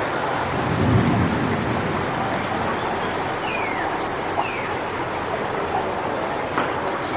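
Strong wind rushing steadily through coconut palm fronds, with a low rumble swelling about a second in and two faint falling chirps near the middle.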